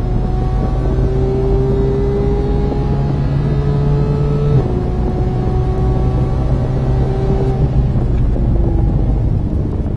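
Race car engine at full throttle down a straight, heard from inside the cabin. Its note climbs slowly, drops sharply at an upshift about four and a half seconds in, then climbs again, over steady wind and road noise.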